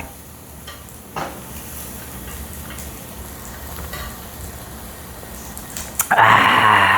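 Pork belly sizzling steadily on a grill, with a single click about a second in. Near the end a man lets out a loud, long drawn-out vocal cry.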